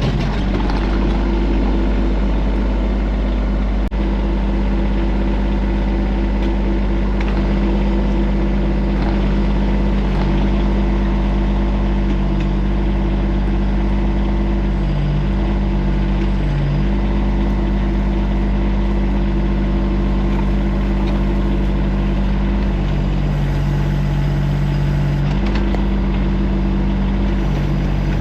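TYM tractor backhoe's diesel engine running steadily under work, with a deeper tone that comes in briefly twice, around the middle and again for a few seconds later on.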